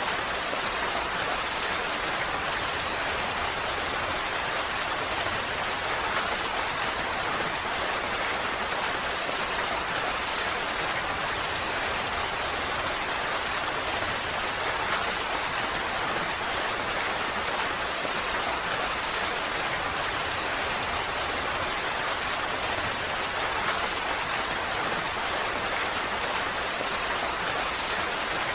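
Steady, even rain falling, a constant hiss with faint individual drops.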